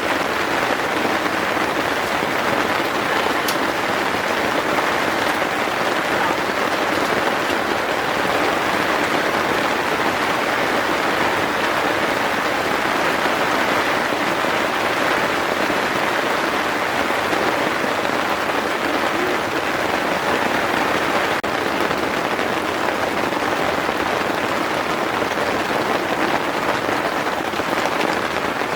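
Heavy rain falling steadily on a tent, an even, unbroken hiss of rain.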